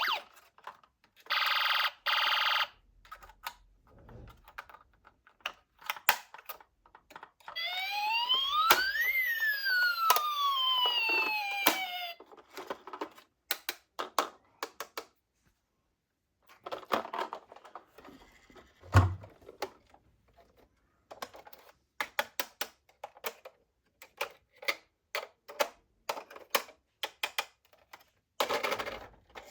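A toy police car's electronic siren, a short buzzy blast near the start, then one wail that rises and falls in pitch about eight seconds in. Between them come many sharp clicks and rattles of small plastic toy cars being handled.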